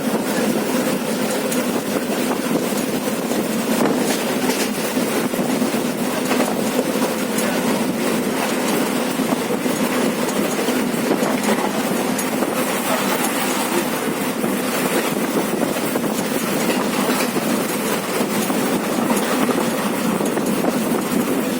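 Passenger train running along the track: a steady rumble with occasional faint clicks of the wheels over the rails.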